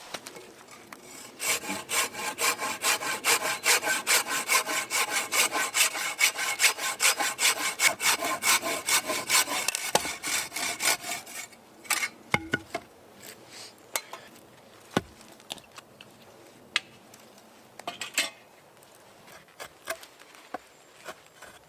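Hand saw cutting through wood in rapid, even back-and-forth strokes for about ten seconds, then stopping. Scattered knocks and clicks follow.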